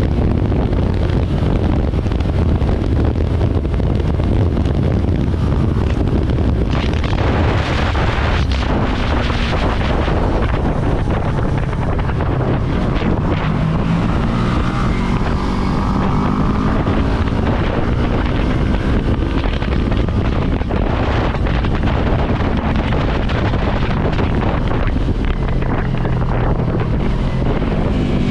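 Wind buffeting the microphone while riding a Yamaha R3 motorcycle, its parallel-twin engine running under the rush of air. Near the end the engine pitch climbs as it accelerates.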